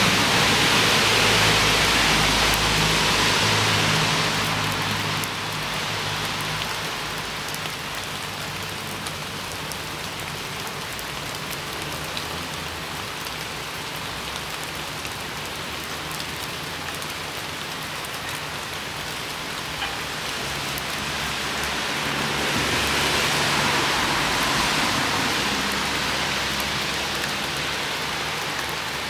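Steady rain falling and pattering on surfaces, heavier in the first few seconds and again about three-quarters of the way through, with a low rumble under the heavier stretches.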